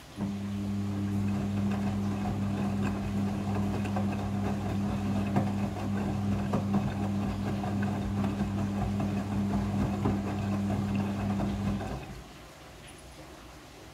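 Midea front-loading washing machine running with a steady hum, then stopping abruptly about twelve seconds in.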